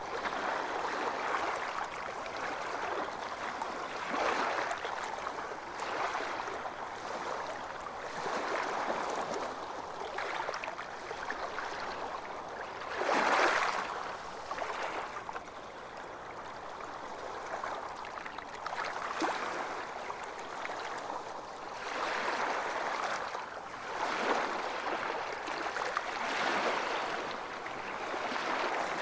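Ocean waves breaking and washing in, a hiss that swells and ebbs every few seconds, with one louder break about halfway through.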